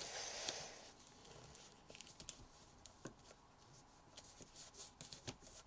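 Faint rustling and crinkling of origami paper being folded and creased by hand, with scattered small crackles.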